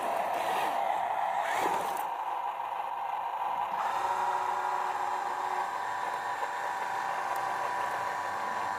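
Small electric motors of radio-controlled toy construction vehicles whirring with a steady whine; the pitch pattern shifts about two seconds in and again about four seconds in.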